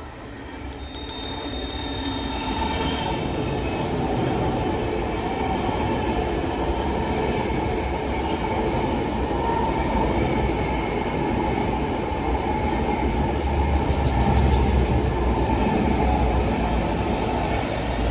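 BART train running through the station at speed without stopping: a steady rumble and rush of wheels on rails that builds over the first few seconds as it approaches, then holds as the cars pass. A thin high whine sounds about a second in and lasts a couple of seconds.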